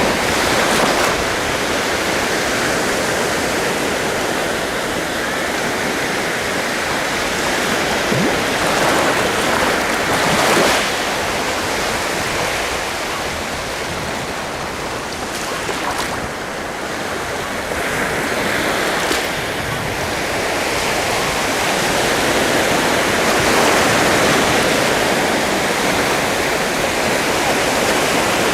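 Sea surf: waves breaking and washing in, a steady rushing hiss that swells and ebbs slowly every several seconds.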